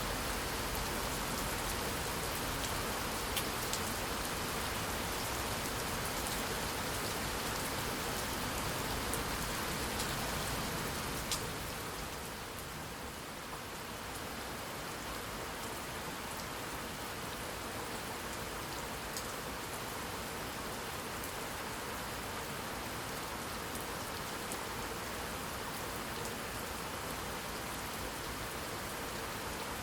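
Steady rain falling on a surface, with scattered sharper drop ticks. The rain eases slightly about twelve seconds in, then carries on evenly.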